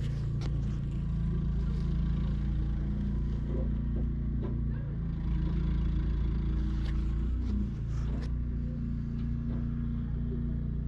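Snowblower engine running steadily, with a brief drop in pitch and loudness about eight seconds in.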